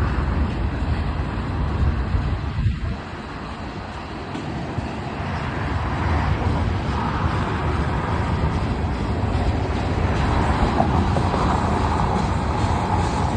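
Union Pacific manifest freight train rolling past: a steady rumble of wheels on rail that dips briefly about three seconds in, then builds back up.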